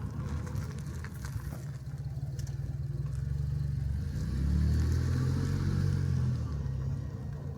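Motor vehicle engine running with a low rumble, growing louder about halfway through and easing off near the end.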